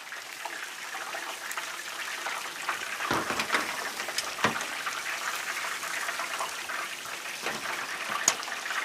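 Fried chicken being pulled out of hot frying oil: the oil sizzling and bubbling steadily with crackling pops, and a few short knocks about three and four and a half seconds in.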